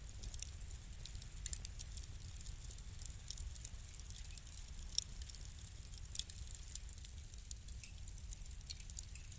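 Wood fire crackling: a steady scatter of small pops and snaps over a low rumble of the flames, with a sharper pop about five seconds in and another just after six seconds.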